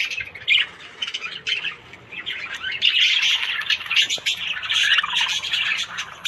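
Budgerigars chattering and warbling, a dense stream of rapid chirps, squawks and short whistles from several birds at once, busiest in the middle.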